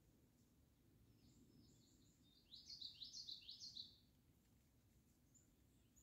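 A songbird singing: a quick run of about seven high, rising notes lasting just over a second, with a few faint high notes before it and one more faint note near the end.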